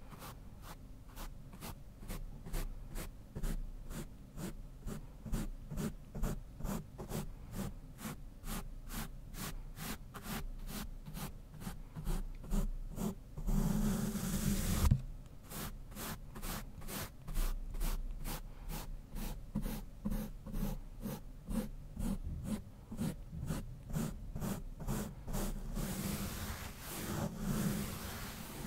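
A brush swept quickly back and forth over a Blue Yeti microphone, making rapid, even scratchy strokes of about five a second. About halfway through, one longer continuous sweep, then the quick strokes resume, blurring into smoother brushing near the end.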